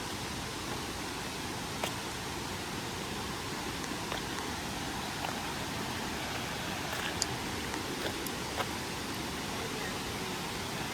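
Steady rushing water noise, with a few faint short clicks and taps scattered through it.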